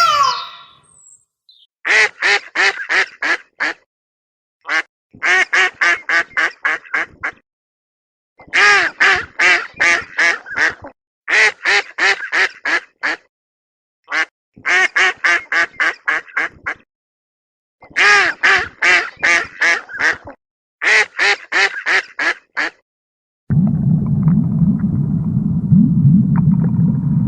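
Duck quacking in seven quick runs of six to eight quacks each, with short pauses between the runs. Near the end the quacking stops and a low steady rumble takes over.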